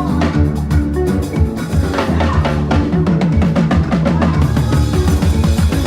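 A drum kit played fast, with rapid snare and bass drum strokes, over music with a held, pitched bass line.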